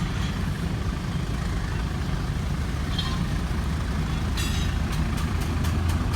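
Departing passenger train's diesel locomotive running with a steady low rumble; from about four and a half seconds in, a quick run of sharp metallic clicks joins it.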